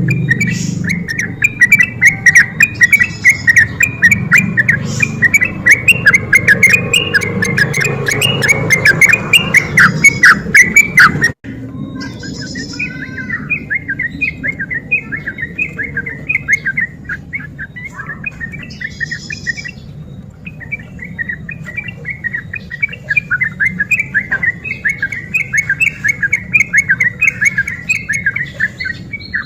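Yellow-vented bulbul (trucukan) singing a fast, unbroken run of chattering chirps and trills. The song breaks off abruptly about eleven seconds in and resumes more quietly straight after.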